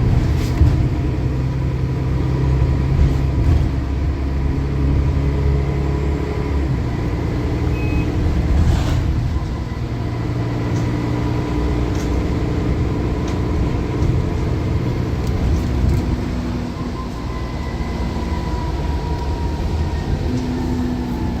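Bus diesel engine running under way, its pitch shifting every few seconds as it pulls and eases off, with a faint turbocharger whistle that rises and falls near the end. A few sharp rattles or knocks cut through.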